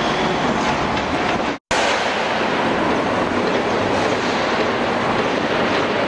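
A train running on the tracks, a steady loud rumble and clatter of wheels on rails. The sound drops out for a split second about one and a half seconds in, then carries on.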